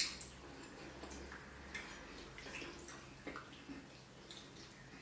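Wet mouth sounds of eating fish pepper soup and pounded yam: scattered short smacks and clicks of chewing, about one a second.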